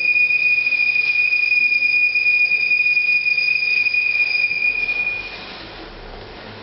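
A steady high-pitched tone with a fainter overtone above it, held for about five seconds and then fading out.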